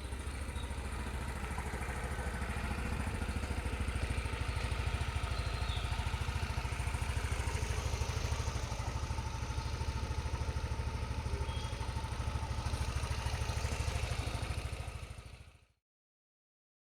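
TVS Jupiter 113 scooter's single-cylinder air-cooled four-stroke engine idling steadily during a cold-morning warm-up, then fading out near the end.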